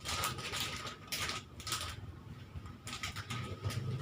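Plastic snack packaging and gift wrap being handled by hand: irregular bursts of crinkling and rustling.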